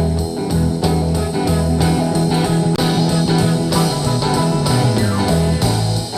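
Instrumental passage of a blues song: guitar playing over a bass line and a steady beat, with no singing.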